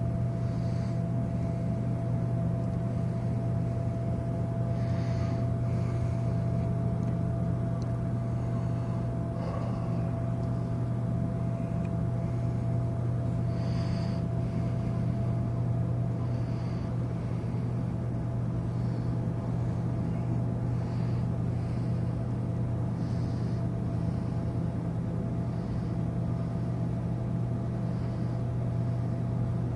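Steady low drone of a cruise ship's machinery, with a thin constant whine above it and faint short high sounds now and then.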